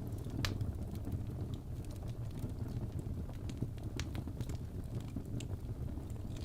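Wood fire burning in a fireplace: a steady low rumble with irregular crackles and pops, roughly two a second, the sharpest about half a second in.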